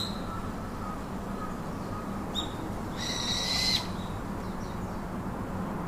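A bird calling: a sharp chirp at the start, a short note a little after two seconds in, then one long, steady, high call lasting under a second about three seconds in, over a constant background hum.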